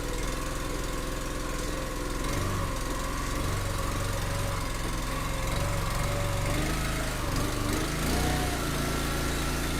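Small gasoline engine of a firewood splitter idling steadily while it warms up from a cold start, its pitch wavering slightly in the second half.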